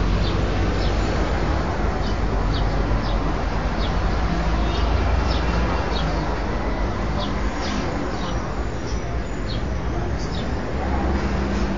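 Small birds chirping: short, high chirps scattered through, over a steady low rumble.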